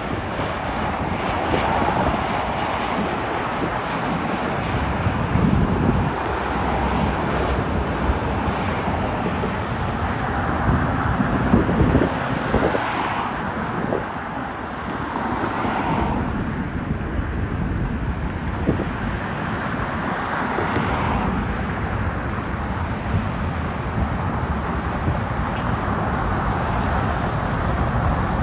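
Steady outdoor rumble of vehicles, with wind buffeting the microphone and swelling a few times.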